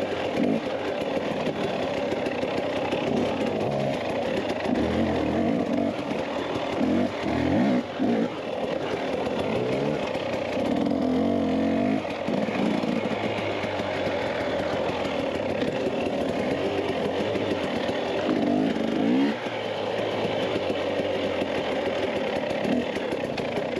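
Dirt bike engine running under way, its pitch rising and falling repeatedly with the throttle.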